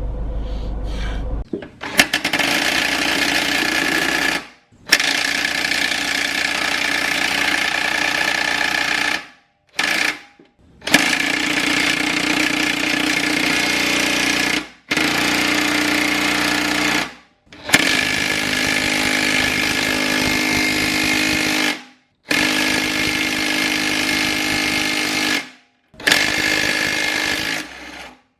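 A power tool run in about eight bursts of two to four seconds each, every burst starting and stopping abruptly with a steady whine, as used on motorcycle suspension fasteners.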